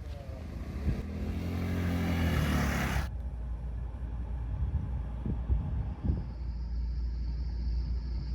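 Motor vehicle running with a low road rumble. For the first three seconds a louder engine note bends in pitch over a rising hiss, then cuts off abruptly, leaving a steady low rumble.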